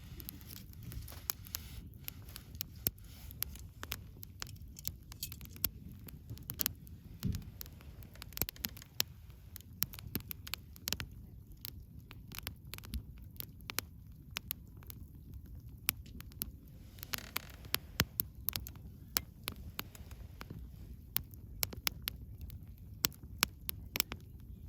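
Wood fire burning, with frequent irregular crackles and sharp pops over a low steady rumble.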